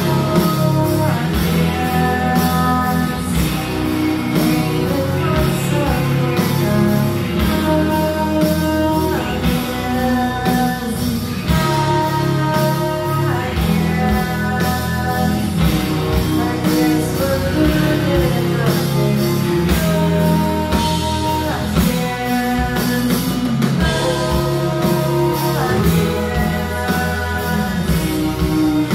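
Live rock band playing: electric guitars and drums with sung vocals.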